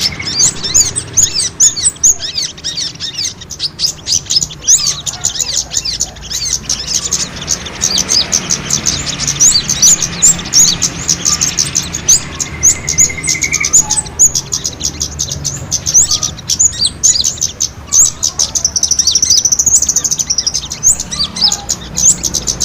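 Small birds fighting, giving a dense, continuous stream of rapid high-pitched chirps and twitters. About twelve seconds in there is a brief rising trill, and near the end a held buzzy note. This is a bird-trapping lure recording of small-bird fight calls, played to draw wild birds in.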